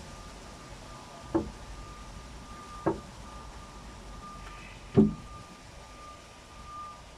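Three heavy thuds, the last the loudest, over a low rumble and a faint steady high tone.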